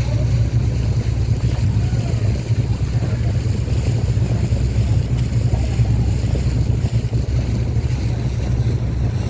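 Boat engine running steadily under way, a constant low hum, with water rushing along the hull and wind on the microphone.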